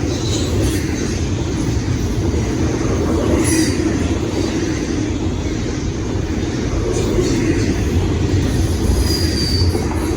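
Norfolk Southern freight train rolling past on the rails: a loud, steady rumble of wheels on track, with a brief faint high squeal about nine seconds in.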